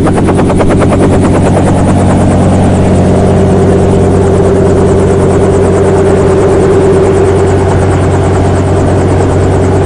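Helicopter turbine and rotor running steadily on the ground before takeoff, heard from inside the cabin: a rapid, even beat of the blades over a steady engine whine that grows a little stronger midway.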